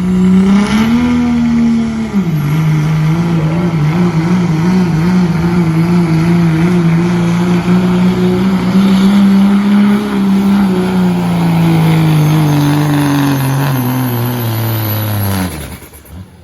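Diesel pickup engine with a 2.6-inch smoothbore turbo held at full throttle through a pull, its pitch wavering and then slowly dragged down as the load builds. A high turbo whistle runs over it, and the engine note cuts off suddenly near the end as the throttle comes off.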